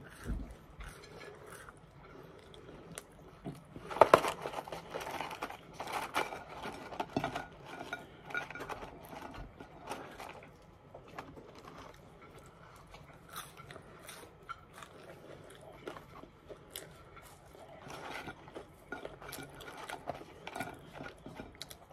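A person chewing and crunching McDonald's French fries: irregular crunches and chewing, loudest about four seconds in.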